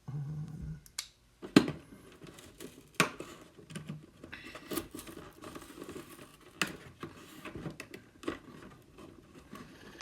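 Toy packaging being handled: irregular clicks, knocks and rustles of plastic and cardboard, with a sharp click about one and a half seconds in and another about three seconds in.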